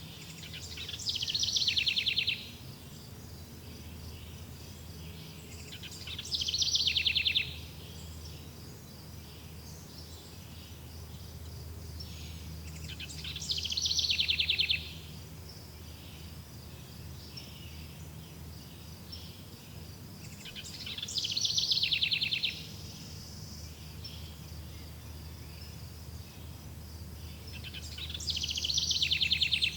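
A songbird repeating a fast trilled song about every seven seconds, five times, each trill swelling in loudness for a second or so and then stopping sharply. A steady high insect chirring runs underneath.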